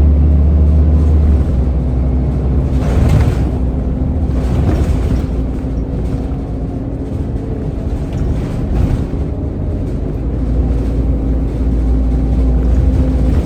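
Scania N230UD double-decker bus's engine and ZF automatic gearbox heard on board: a loud, low drone that eases off about a second and a half in, then builds again near the end.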